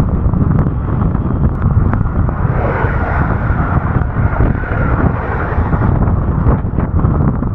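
Strong wind buffeting the microphone of a bicycle-mounted camera, a loud, steady, fluttering rumble. About two and a half seconds in a hissing swell rises and fades over a couple of seconds.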